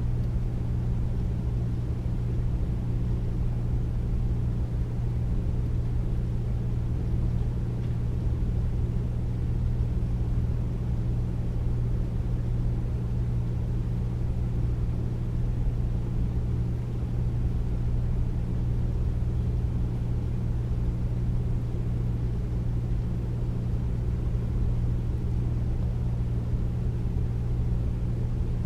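Air conditioner running steadily: a deep, even hum with a soft rush of air over it, unchanging throughout.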